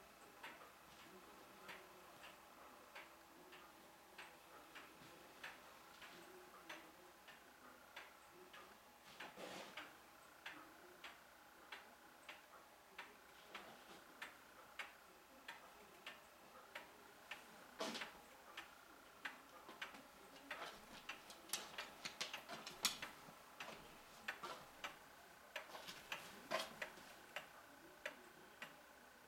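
Faint sharp ticking clicks, at a fairly even pace of a little over one a second, becoming quicker and more irregular about two-thirds of the way through.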